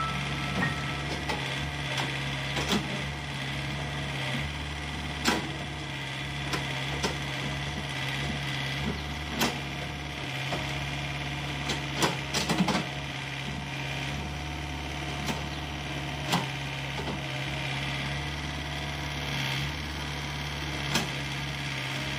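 Heavy earth-moving machine's engine running steadily at a low hum, with irregular sharp knocks and clanks every few seconds.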